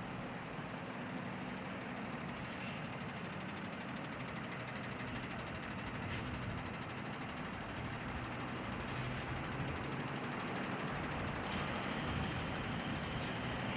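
Fire truck engine idling steadily, with several brief hisses of air.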